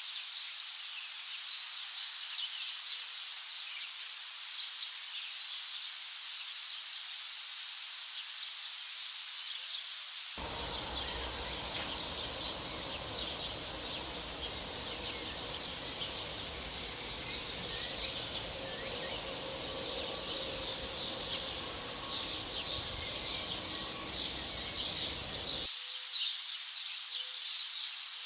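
Dense chorus of many birds chirping and twittering in quick, high-pitched calls. From about a third of the way in until near the end, a low background rumble joins it.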